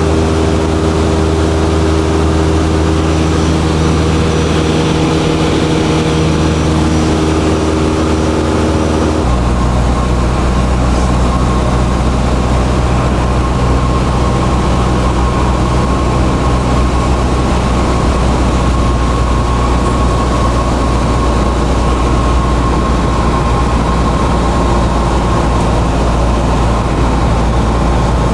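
Light airplane's piston engine and propeller droning steadily. About nine seconds in, the engine note changes abruptly and then holds steady again.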